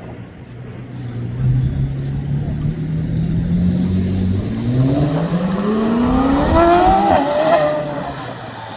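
An engine holding a steady note, then speeding up with its pitch climbing for a few seconds before dropping back near the end.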